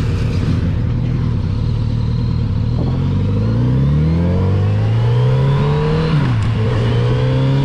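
Kawasaki Z900RS inline-four engine pulling at a steady pitch, then accelerating with rising pitch from about three seconds in. About six seconds in the pitch drops sharply at an upshift before climbing again.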